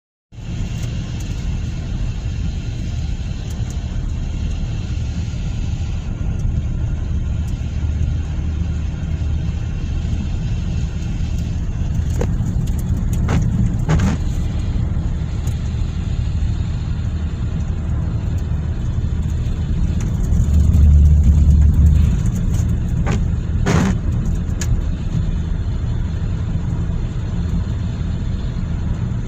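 Hyundai car driving, a steady low rumble of engine and road noise that swells louder for a moment about two-thirds of the way through, with a few sharp ticks in the middle and later on.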